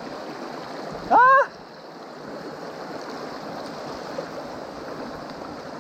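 Mountain stream flowing steadily, with one short exclamation about a second in.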